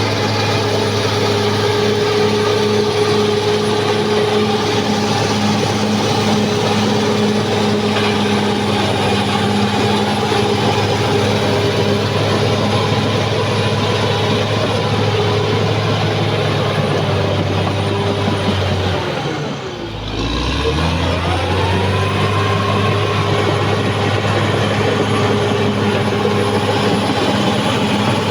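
Caterpillar D6R XL bulldozer's diesel engine running loudly and steadily. About twenty seconds in, the revs sag and the sound briefly drops, then the engine picks back up.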